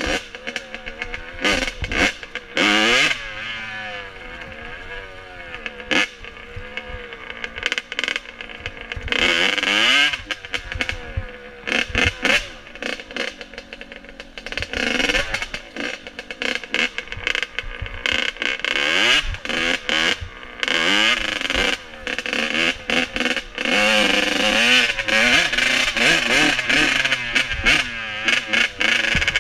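Dirt bike engine running and revving, its pitch rising and falling again and again, with many sharp knocks and clicks throughout.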